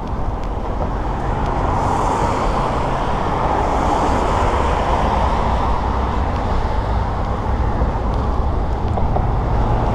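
Steady road traffic noise, a rush of tyres and engines from passing cars, swelling a couple of seconds in and staying loud.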